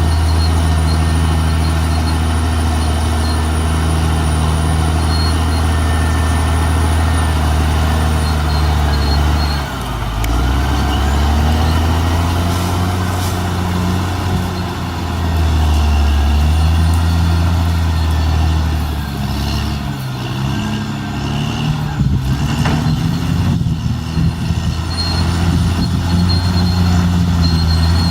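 Caterpillar D6R XL bulldozer's diesel engine running hard, its pitch dipping and climbing back as the load changes. From about two-thirds of the way through it turns rougher, with scattered knocks and clatter.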